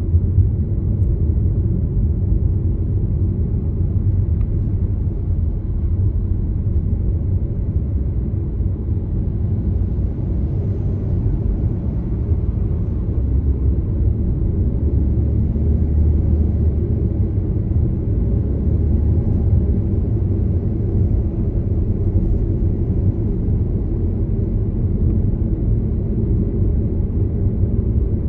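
Car driving steadily: a constant low rumble of engine and road noise with no sudden events.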